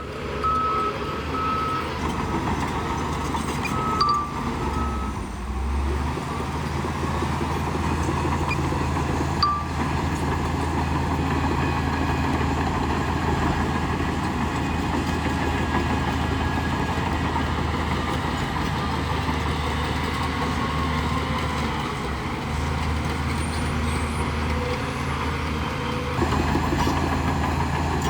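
Shantui bulldozer's diesel engine running steadily under load, with the rough rumble of the machine working. A reversing alarm beeps in short pulses during the first few seconds.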